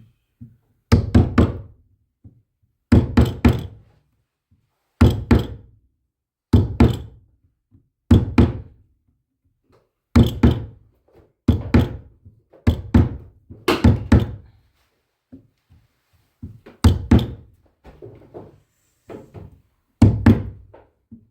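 Repeated knocking blows, coming in bursts of several quick strikes every second or two.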